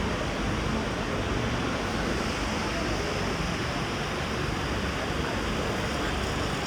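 Steady outdoor ambience: an even wash of noise with no distinct events standing out.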